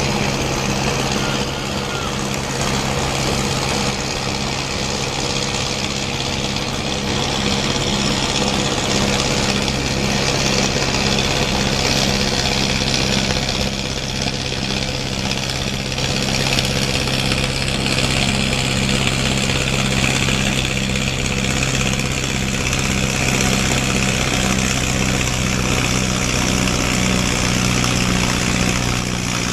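Antique tractor engine running steadily at an even pitch with a regular low throb, as when pulling the weight sled in a tractor pull.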